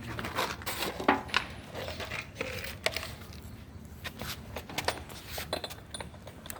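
Irregular metallic clinks and knocks from steel attachment parts being handled during assembly, a cluster in the first second and a half and another around five seconds in.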